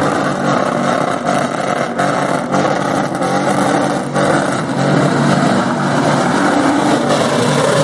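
Car engine running loudly and revving, over a steady wash of noise.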